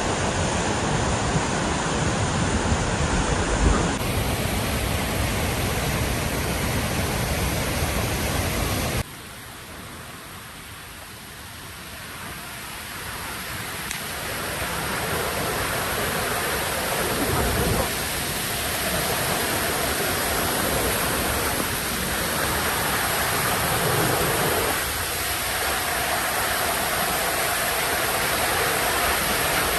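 Waterfall swollen after a flood: a steady, loud rush of falling water. The sound drops off suddenly about nine seconds in and swells back to full strength over the next several seconds.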